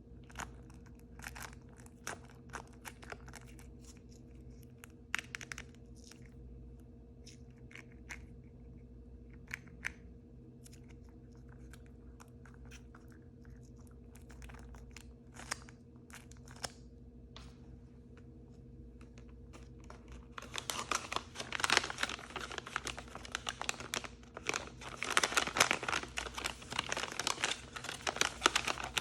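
Plastic blind-bag packaging being crinkled and torn open by hand: scattered crackles at first, then dense, louder crinkling and tearing from about twenty seconds in. A faint steady hum runs underneath.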